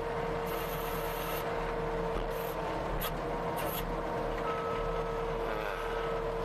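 Tracked skid steer's engine running steadily, with several short high hissing bursts in the first few seconds. A backup alarm starts beeping near the end.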